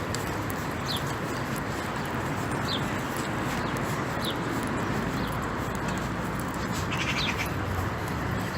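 Steady rain with a bird calling over it: short, high, falling chirps every second or two, then a brief rapid trill near the end.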